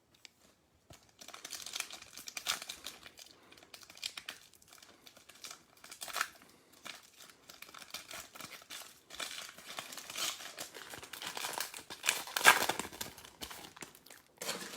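Plastic wrapper of a trading-card pack crinkling and tearing as it is opened and handled, in irregular crackles with the loudest stretch near the end.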